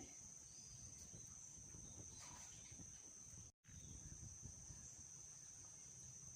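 Near silence: faint background with a thin, steady high-pitched tone, broken by a moment of total silence about three and a half seconds in.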